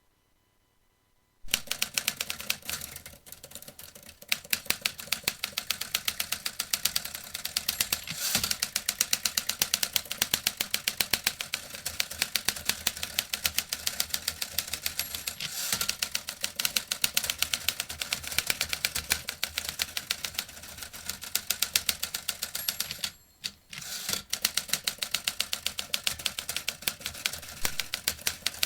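Vintage typewriter typing: keys striking in quick, steady succession after about a second and a half of near silence, with a short pause near the end before the typing resumes.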